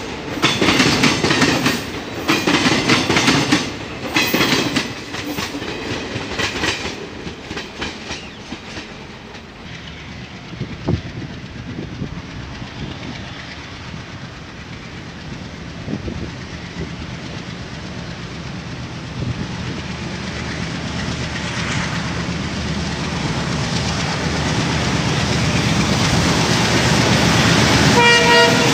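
Passenger coach wheels clattering rapidly over the crossover's points and crossings, a quick run of loud knocks that fades out after about eight seconds as the train clears. Then a diesel-hauled passenger train approaches with a rising rumble and sounds a short horn blast near the end.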